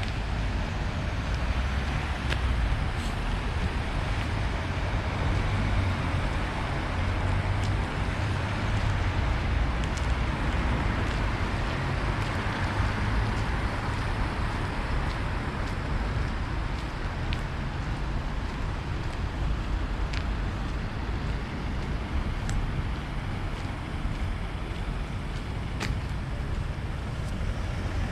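Road traffic: vehicles passing with tyre noise that swells around the middle, over a steady low rumble.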